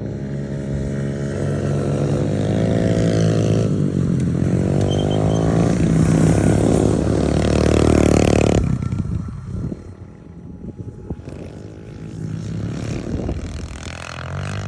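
Small off-road vehicle engine revving hard, its pitch climbing, dipping about four seconds in, and climbing again. A little past halfway it drops off sharply to a quieter, uneven running.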